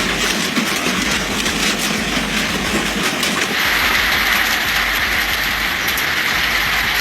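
Heavy hail coming down in a dense, steady rattle of stones. The sound changes character about halfway through, where one recording cuts to another.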